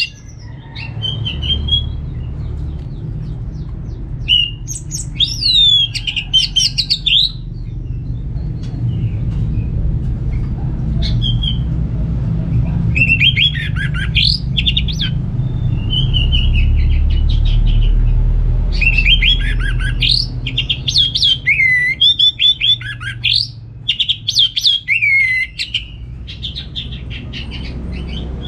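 Orange-headed thrush singing in bursts of quick, varied whistled phrases that sweep up and down in pitch, with short pauses between them, over a steady low hum.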